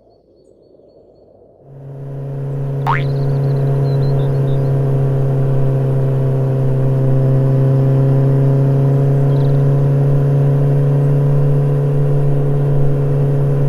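Motorcycle engine sound effect that starts about two seconds in and then runs loud and steady at one unchanging pitch, with a brief sharp pitch glide shortly after it starts.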